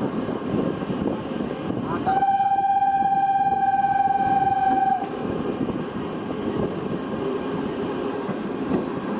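A train's horn sounds one steady blast of about three seconds, starting about two seconds in, over the continuous rumble of a train running past.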